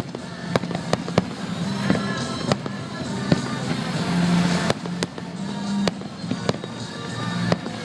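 Fireworks display: about ten sharp bangs of exploding shells at uneven intervals, with crackling, over music playing throughout.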